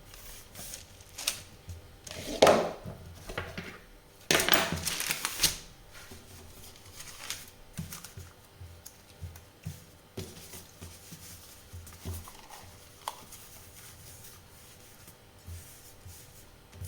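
Sheet of baking paper rustling and crinkling as it is handled, in two loud bursts about two and four seconds in. Quieter scattered taps and small handling sounds follow.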